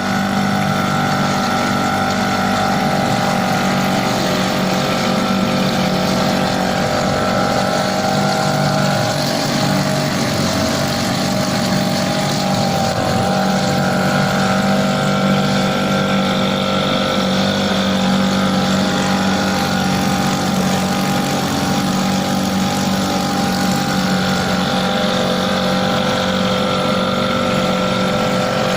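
Hidea 3.5 hp outboard motor running steadily during its break-in, its pitch shifting slightly now and then.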